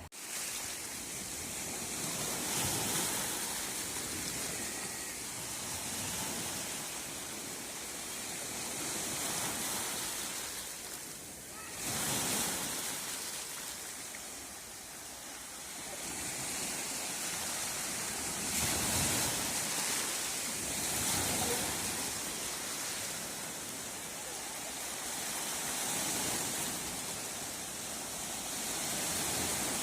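Sea waves breaking and washing ashore, a steady rushing hiss that swells and eases every few seconds.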